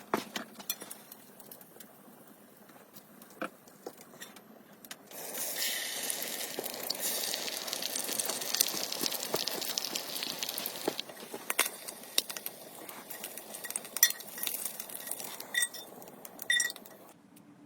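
Cookware being handled: scattered clicks and clinks of metal and glass, with a steady hiss for several seconds in the middle. A couple of short ringing clinks come near the end.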